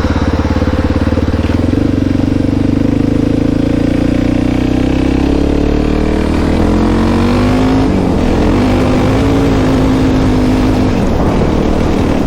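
Honda XR650R single-cylinder four-stroke engine running while the bike is ridden, its note rising and falling with the throttle. About eight seconds in the pitch drops sharply, then holds steady for a few seconds.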